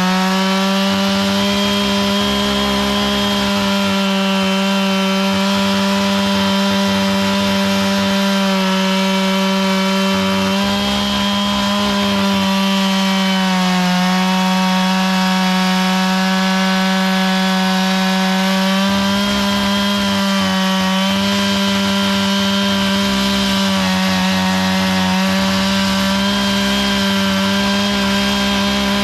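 Two-stroke chainsaw held at high revs while milling a log, running steadily for the whole stretch. Its pitch sags a little now and then as the chain loads up in the cut.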